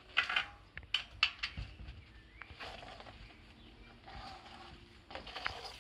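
Bicycle tyre and tube being worked off the rim by hand: a series of short rubber rubbing and scraping noises.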